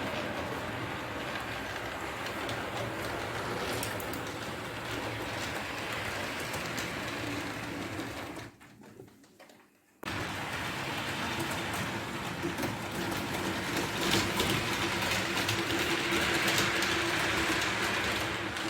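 HO-scale model train running on the layout: the locomotive's small electric motor hums and the wheels rattle steadily over the track. The sound drops out to near silence for a second or so about halfway through, then picks up again.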